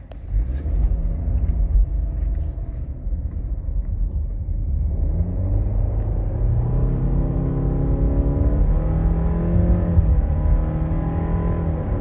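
2019 Subaru Outback's engine and road noise heard inside the cabin while the car drives and accelerates. A steady low rumble sets in just after the start, and an engine note rises from about five seconds in.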